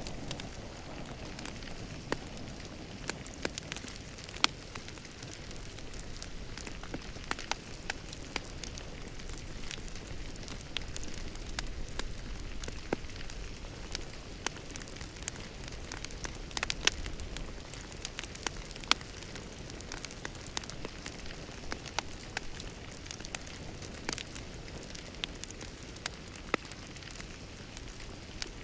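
Wood fire in a fireplace crackling: a steady soft hiss and low rumble with irregular sharp pops and snaps, several a second, a few of them louder.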